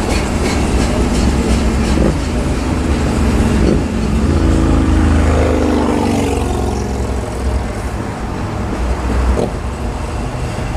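Norfolk Southern double-stack intermodal freight cars rolling past at close range, a steady rumble of steel wheels on rail. Wheels click over the rail joints in the first second, and a brief droning tone dips slightly in pitch around the middle.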